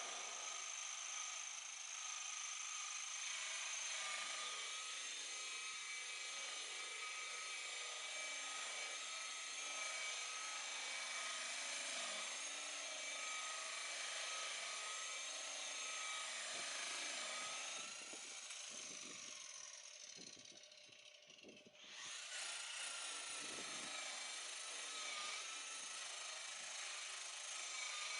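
Electric buffer running steadily with a high whine while buffing oxidation off a fibreglass boat hull. About eighteen seconds in it slows down, and a few seconds later it starts up again abruptly.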